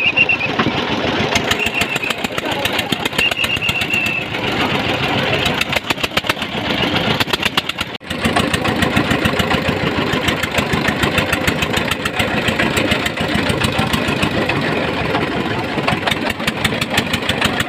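A boat's engine running with a rapid, even knocking beat, loud and close, with a short dip about eight seconds in. A high wavering tone comes and goes over the first four seconds.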